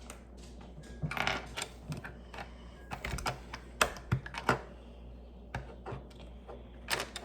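Plastic Lego pieces clicking and clattering as they are handled and pressed together, in irregular bunches of sharp clicks.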